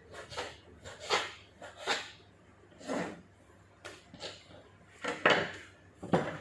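Kitchen items being handled while the chicken is seasoned: a series of short knocks, taps and scrapes of containers and utensils, about seven in all, the loudest a little after five seconds in.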